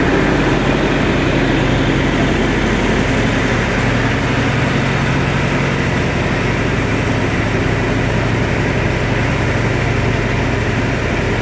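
Heavy engine idling steadily and loudly close by, with a constant low hum and broad rumble.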